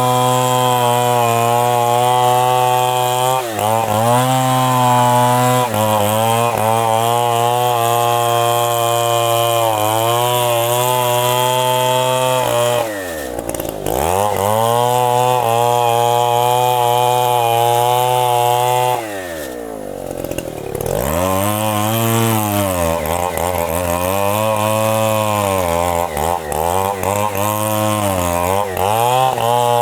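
Two-stroke chainsaw running hard in the cut of a very large tree trunk, its pitch sagging and recovering again and again as the saw labours in the wood. Twice, about 13 seconds in and again about 19 seconds in, the engine drops to a low idle and then revs back up.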